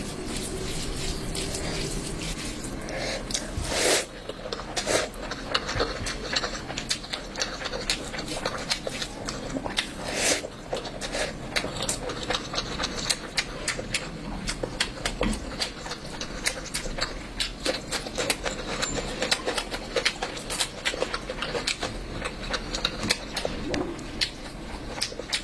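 Close-up eating sounds: a person chewing and smacking mouthfuls of curry, with rapid, irregular wet clicks throughout and a couple of louder knocks.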